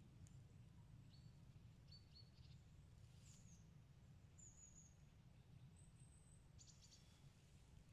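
Near silence: faint, scattered high bird chirps, some falling in pitch and a quick run of them near the end, over a low steady rumble.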